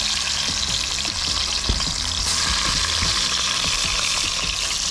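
Hot dogs frying in oil in a metal pan: a steady sizzling hiss, with one sharp pop about a second and a half in.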